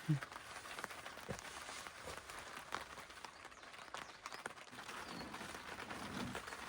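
Scattered light clicks and knocks of camping gear being handled, over quiet forest ambience, with a short high chirp about five seconds in.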